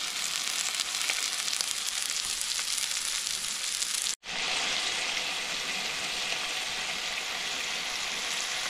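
Lamb frying, a steady sizzle that cuts out for an instant about four seconds in and then carries on.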